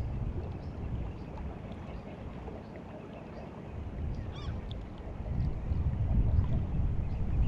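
Sea water at the flooding tide washing along the shore, a low rumbling noise that swells and eases. A short bird call sounds once about four seconds in.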